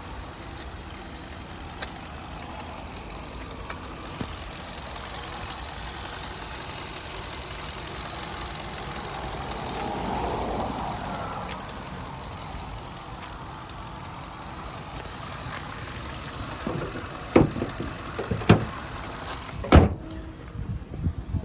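Hyundai Accent's 1.4-litre G4LC four-cylinder engine idling steadily, louder about halfway through. Near the end come a few knocks and a sharp bang as the hood is shut, after which the engine sound is duller.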